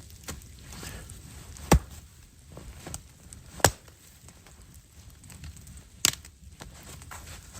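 Wood being chopped: three sharp strikes about two seconds apart.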